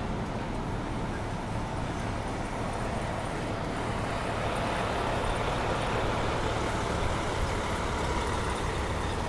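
City street traffic, a steady rumble of passing vehicles, with one vehicle passing closer and growing louder through the middle before easing off.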